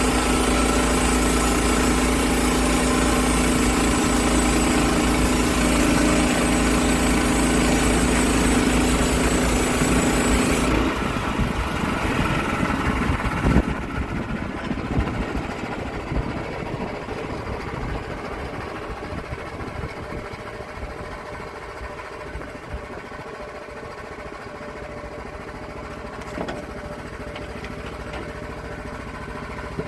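Small gasoline engine of a log-milling saw running steadily at high throttle, then dropping to a lower, quieter idle about eleven seconds in, with a sharp knock shortly after the drop.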